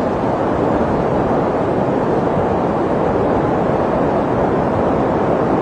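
Snowstorm wind blowing steadily: a deep, even rush of noise with no distinct gusts or crackles.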